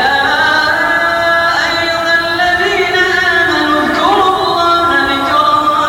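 Quran recitation: a single voice chanting long, drawn-out melodic notes that bend and glide in pitch.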